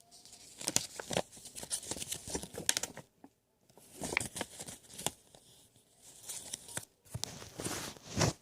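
Paper instruction manual being handled, rustling and crinkling in irregular bursts with short pauses.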